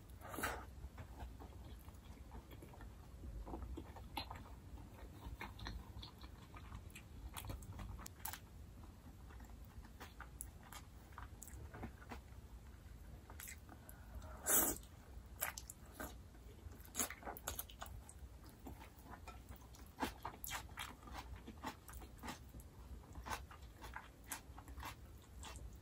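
Close-up mouth sounds of someone eating jjajangmyeon, black bean sauce noodles: chewing with many small wet clicks and smacks. There is one louder burst about halfway through.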